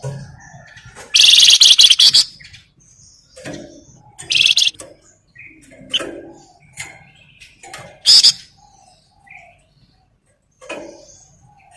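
Flamboyan songbird singing: three loud, harsh rattling bursts, the first about a second long, the others shorter around four and eight seconds in, with softer short chirps and notes scattered between them.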